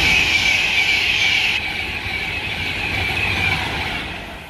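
A train passing by: a loud rushing noise with a high-pitched ringing band on top, which sags slightly in pitch and fades near the end.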